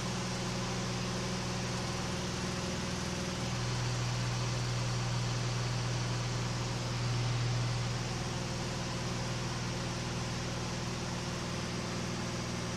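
KR2 light aircraft's piston engine and propeller droning steadily at a cruise setting of about 2400 RPM, with a constant rush of air noise; it swells slightly for a few seconds around the middle.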